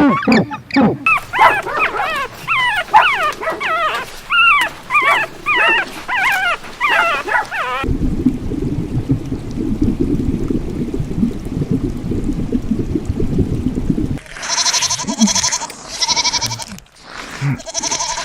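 Animal calls from separate clips cut together. First comes a long run of high yelps that bend rapidly up and down, then about six seconds of low rumbling noise, then several loud drawn-out calls near the end.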